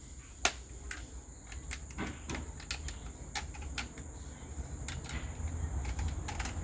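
A series of irregular sharp clicks and light knocks from hands working on the fridge's fittings, the loudest about half a second in, over a steady faint high whine.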